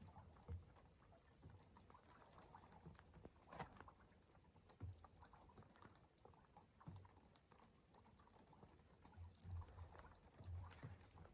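Near silence with faint scattered clicks and a few soft low thumps.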